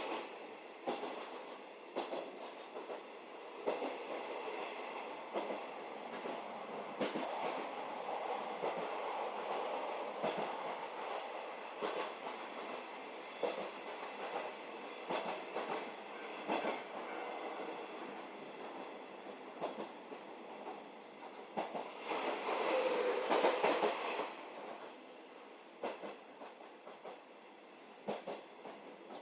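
711-series electric train running along the line, its wheels clacking over rail joints at uneven intervals above a steady rolling noise, with a louder stretch of rumble a little past the two-thirds mark.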